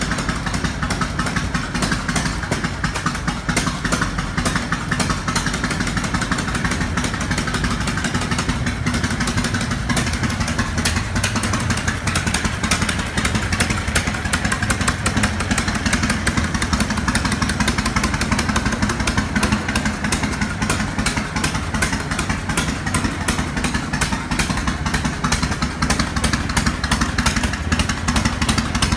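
Harley-Davidson Shovelhead air-cooled V-twin engine idling steadily, with no revving.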